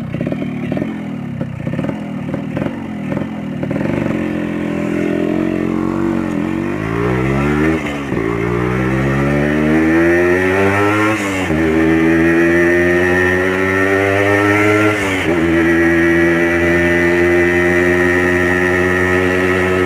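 A Yamaha RX Special's 115 cc two-stroke single-cylinder engine with an original RX King exhaust, heard from the bike while riding. It eases off, then revs up through the gears: the pitch rises steadily and drops suddenly at shifts about 11 and 15 seconds in, then settles into a steady cruise.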